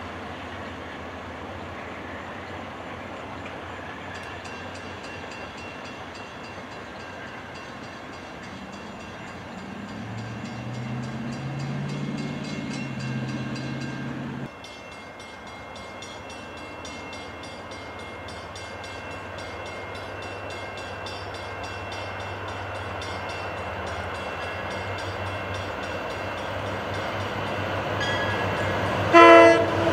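A commuter train running past a grade crossing as it pulls away, with the crossing bell ringing. Then a second commuter train rumbles closer and louder and sounds its horn in one short loud blast just before the end.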